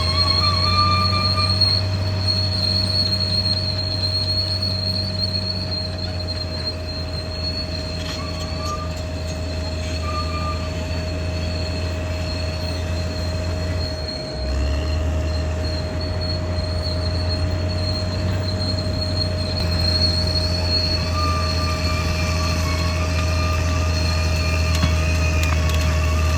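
A Caterpillar D6R XL crawler bulldozer's diesel engine running under load, with a steady high-pitched metallic squeal of the kind steel crawler tracks and undercarriage make. The engine note dips briefly about halfway through, then picks up again.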